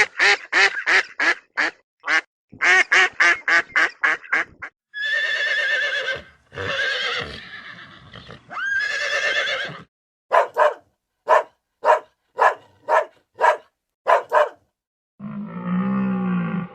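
Farm animals calling in a series of separate clips cut together. First comes a fast run of short repeated calls, then three long wavering calls, then a string of short single calls about twice a second, and a lower drawn-out call begins near the end.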